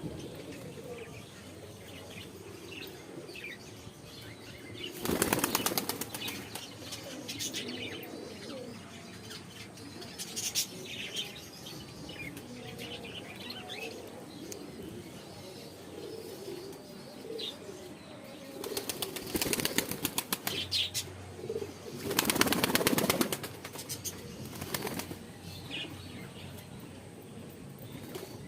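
Caged birds flapping their wings in quick bursts: once about five seconds in, then twice in close succession near the last third. Faint bird calls come in between the bursts.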